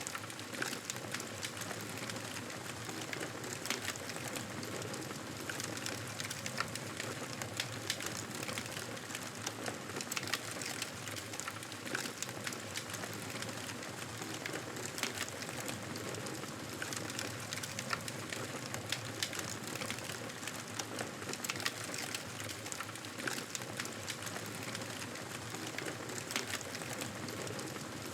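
Wood fire in a fireplace crackling: a steady hiss with frequent sharp pops and snaps scattered throughout.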